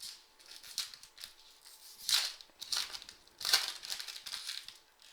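Foil wrapper of a football trading card pack crinkling as it is handled and opened, in a string of short rustles with two louder crinkles about two and three and a half seconds in.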